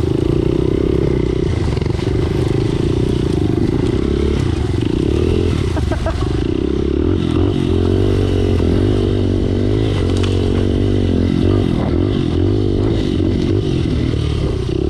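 Pit bike engine running as the bike is ridden along a trail, its pitch rising and falling with the throttle.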